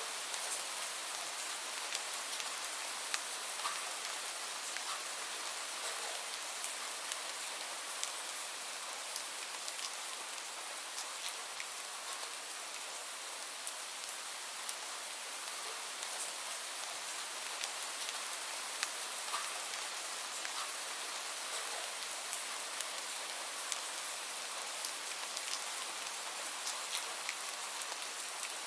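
Steady rain falling, an even hiss with many sharp, scattered drops ticking on a hard surface.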